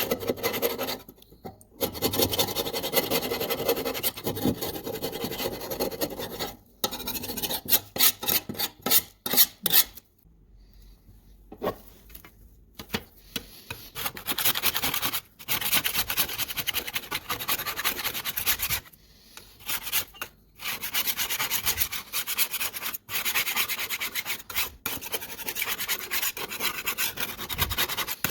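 Hand abrading of parts of an antique kitchen scale: repeated rubbing and rasping strokes, in several runs that stop abruptly between them. About eight to ten seconds in there is a run of quick, separate strokes.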